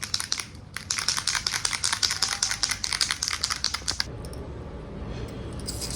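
Small aerosol spray paint can being shaken hard, its mixing ball rattling in quick clicks, about nine or ten a second; the rattling stops about four seconds in.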